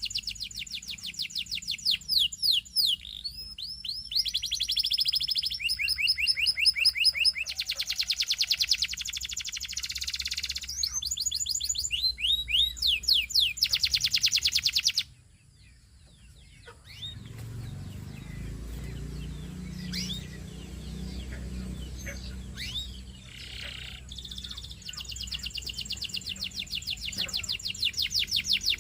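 Canary singing fast, rolling trills of rapidly repeated high notes. The song breaks off suddenly about halfway through. A low hum with scattered faint chirps follows, and the trills start again near the end.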